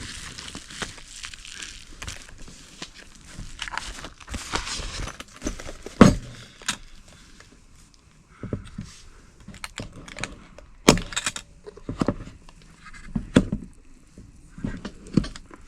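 Handling noise from a self-heating cooker that runs on a chemical heat pack: rustling early on, then scattered clicks and knocks of plastic parts, with the sharpest knock about six seconds in.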